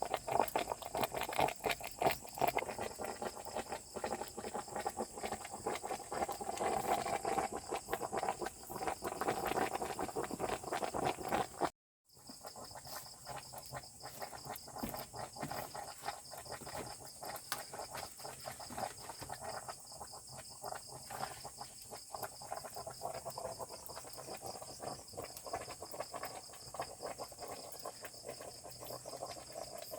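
Insects and frogs calling: a steady high-pitched buzz over a dense, irregular crackle. The sound drops out briefly about twelve seconds in, then goes on more quietly.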